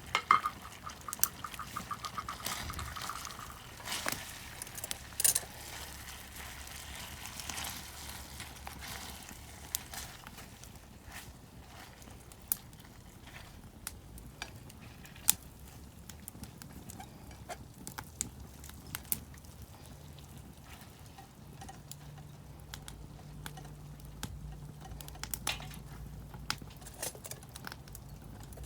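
Cooking in an iron frying pan over a wood fire: scattered clinks and clicks of utensils stirring in the pan, busiest in the first ten seconds, over a soft background hiss.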